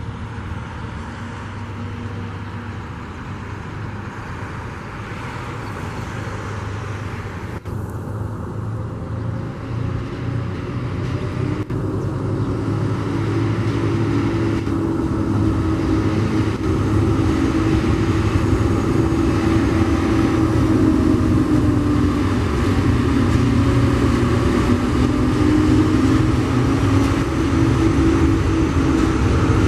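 Tasrail diesel locomotives TR07 and TR09 hauling a log train, their engines droning steadily and growing louder as they approach.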